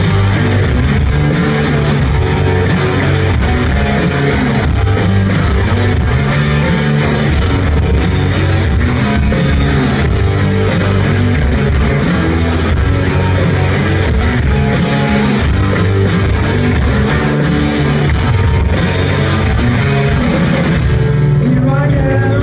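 Live rock band playing loud electric guitars, bass and drums in a steady driving rhythm.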